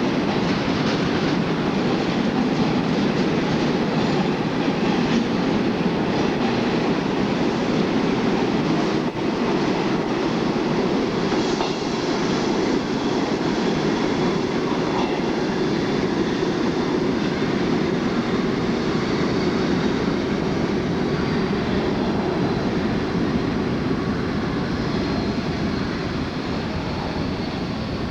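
NYC subway work train of R22 and R30 work motors hauling refuse flat cars, running on steel rails with a steady rumble and clatter of wheels over rail joints. A faint high wheel squeal comes in partway through.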